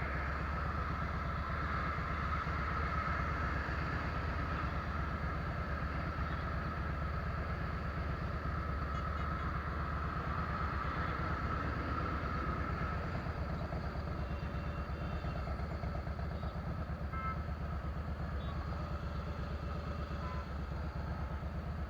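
Harley-Davidson Fat Boy's V-twin engine running steadily through a Vance & Hines fishtail exhaust, a deep, even pulsing with no revving.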